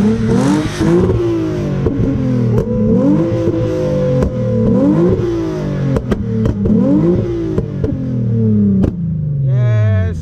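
A car engine is revved hard about six times in quick succession, its pitch climbing and falling with each blip, with sharp exhaust pops in between. Near the end a steady high pitched tone comes in.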